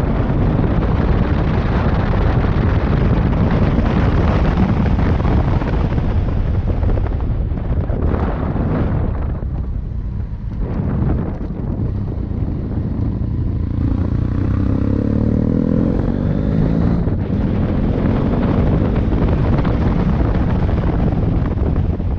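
Motorcycle riding along with wind buffeting the microphone, a loud steady rumble. Partway through, the engine's pitch can be heard gliding up and down.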